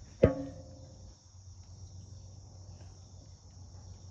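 Crickets chirping steadily, high-pitched. Just after the start comes a single sharp knock with a brief ringing tail, the loudest sound here.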